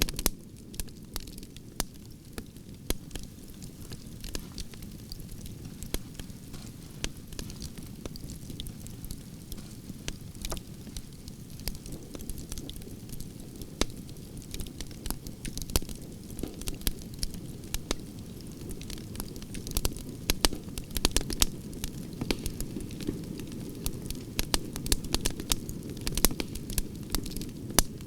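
Wood branches burning in a campfire: a steady low rumble of flames with frequent sharp crackles and pops, thicker in the second half.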